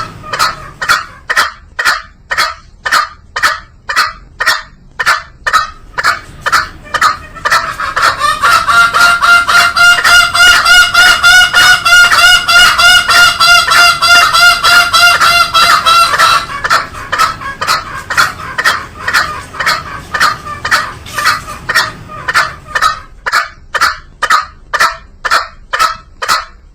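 Green junglefowl calling: short, sharp calls repeated about twice a second, with a louder stretch between about 8 and 16 seconds in where the calls come faster over a steady held note.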